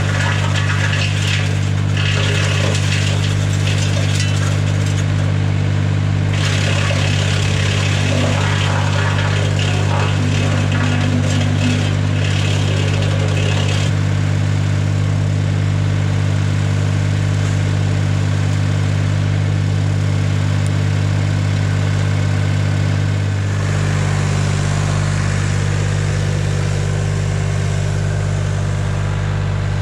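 Tractor engine running steadily, driving a BX-52 PTO wood chipper. Over roughly the first half, an irregular crackling, grinding noise comes and goes as dry dead wood is fed through, easing off about halfway.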